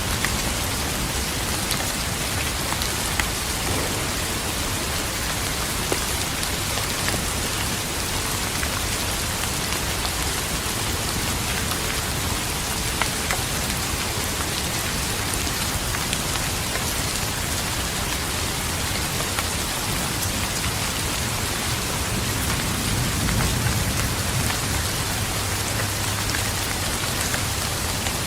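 Steady rain falling on a surface, with scattered individual drops ticking through it. A low rumble of distant thunder swells about three-quarters of the way through.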